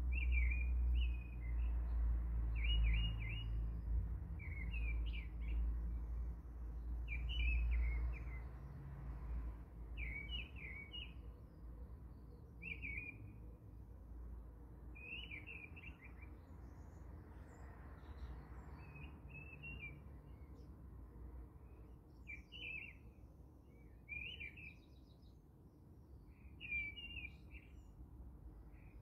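A bird chirping in short repeated phrases, one every second or two, over a low rumble that is strongest in the first eight or nine seconds and then fades.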